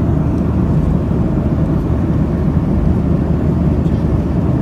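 Steady cabin noise inside a Boeing 737-800 airliner in flight: an even, low rumble of airflow and the CFM56-7B engines, with no change in level.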